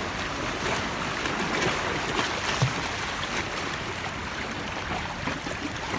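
Sea waves washing at the shore: a steady rush of water with many small splashes, and one brief low thump about two and a half seconds in.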